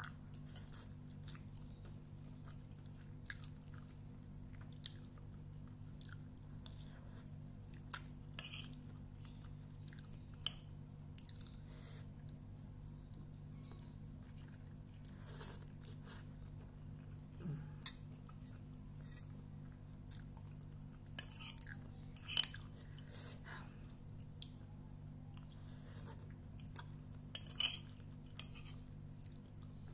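Someone chewing a mouthful of instant fried noodles, with scattered short smacks and clicks of a spoon against the bowl, over a steady low hum.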